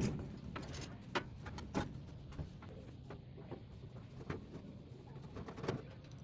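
Scattered clicks and knocks of metal parts being handled while a microwave oven is dismantled for scrap, over a steady low hum.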